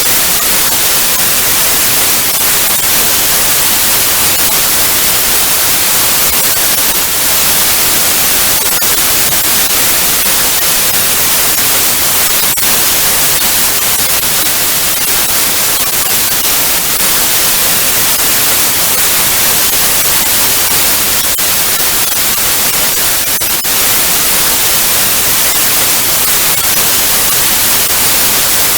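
Analogue TV static: a steady, loud hiss of white noise, bright and weighted toward the highs, with faint crackles now and then.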